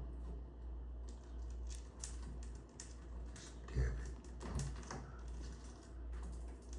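Light, irregular clicks and taps, like a lovebird's beak working at a small stick. A steady low hum runs underneath, and a short low voice-like sound comes about four seconds in.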